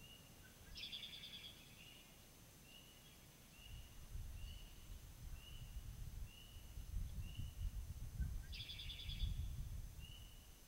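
Birds calling: a short high note repeated steadily about every two-thirds of a second, and twice a longer buzzy trilled song, about a second in and near the end. A low rumble comes in about three and a half seconds in and runs under the calls.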